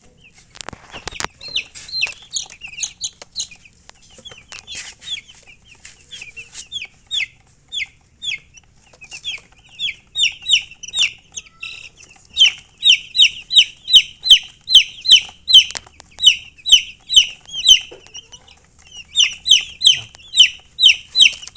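Baby chicks peeping: a rapid run of short, high, falling cheeps, about three or four a second, sparse and faint at first and loud and steady from about twelve seconds in.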